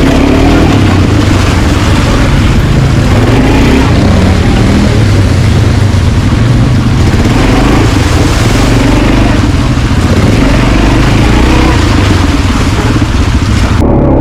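Quad bike engine running under way, its pitch rising and falling with the throttle, under heavy wind noise on the microphone. Near the end the wind hiss drops away suddenly.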